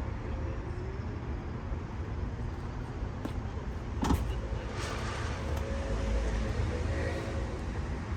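Low, steady rumble of a car, with a single sharp click about four seconds in.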